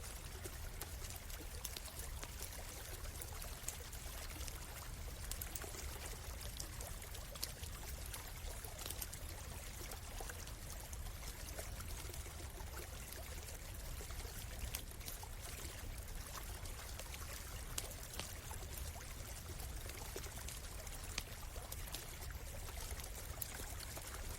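A stream flowing steadily, with a campfire crackling over it in scattered sharp pops.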